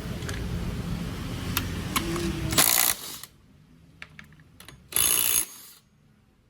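Two short bursts from a shop compressed-air tool, each about half a second, the second about two seconds after the first, with light metal clicks of parts being handled between and after them. Before the bursts, a steady low hum with a few clicks.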